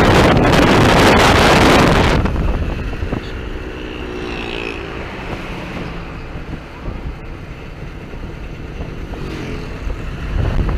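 Wind buffeting the microphone of a moving vehicle for about the first two seconds, then cutting off, leaving a motor vehicle's engine running steadily with street traffic.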